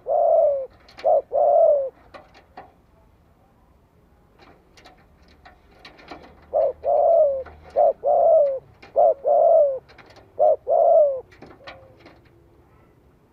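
Spotted dove cooing in two bouts: a short phrase at the start, then a longer run of coos from about six to eleven seconds in, each a low note that falls slightly. It is the male's territorial call, played from a decoy bird to provoke wild males.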